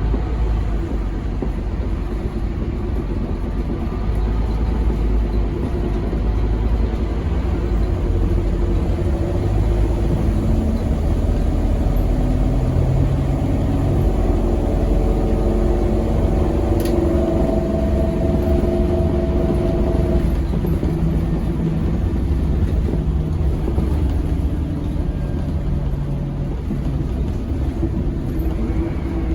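Scania K270UB6 Omnilink bus's 9-litre five-cylinder diesel engine running under way over a steady low road rumble. Its note climbs for several seconds around the middle, then drops back. There is one short click a little past halfway.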